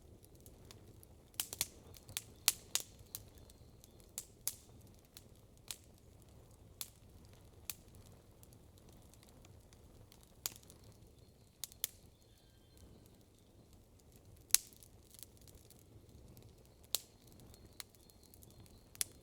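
Campfire crackling: irregular sharp pops and snaps from burning wood, a quick flurry of them about a second and a half in, then single pops every second or so, over a faint low hiss.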